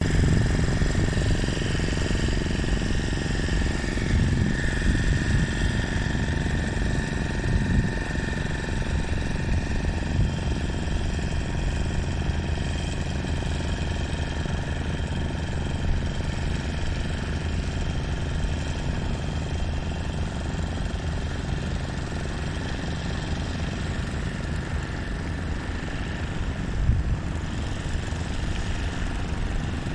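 A boat's engine running steadily, with a single knock near the end.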